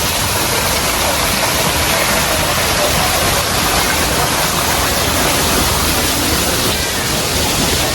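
Steady rush of falling water from a waterfall or cascade, an even hiss with no breaks.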